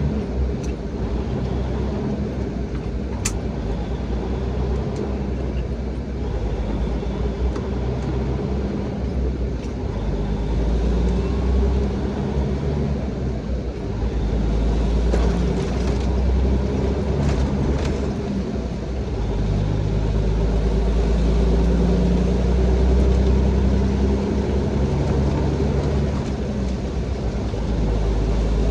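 Straight-piped Caterpillar 3406B inline-six diesel in a Freightliner heavy truck, heard from inside the cab while the truck pulls through the gears. A steady, heavy low rumble whose pitch shifts a few times.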